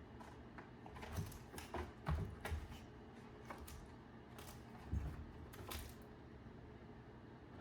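Scattered light clicks, scratches and a few soft thumps, typical of a cat playing with a toy on the floor, with the loudest thumps about two and five seconds in.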